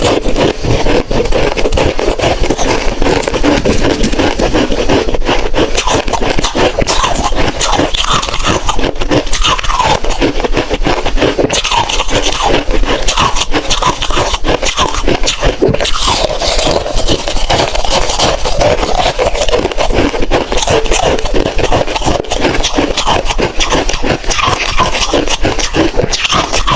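Hard ice being crunched and chewed close to the microphone, a dense, continuous crackle of cracking pieces.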